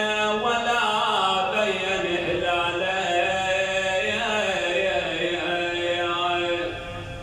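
Male eulogist chanting a Shia mourning lament in long, drawn-out held notes that bend slowly in pitch over a steady low drone, easing off near the end.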